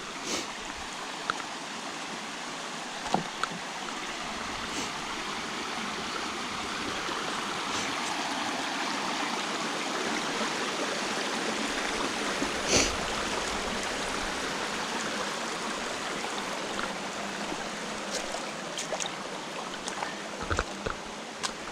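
Creek water rushing over rocks, swelling louder toward the middle and easing off again, with a few sharp clicks scattered through.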